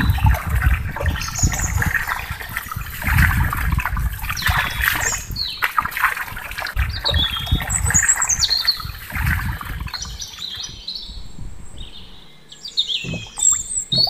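Small birds chirping repeatedly over a thin stream of water trickling and splashing from a toy hand pump into a small plastic basin, with irregular low rumbles underneath.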